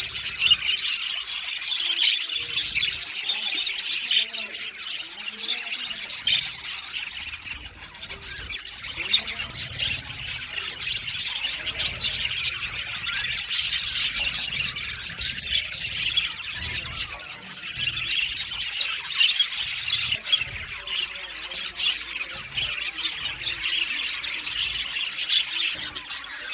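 Budgerigars chattering continuously, a dense stream of overlapping short chirps, warbles and squawks from several birds at once.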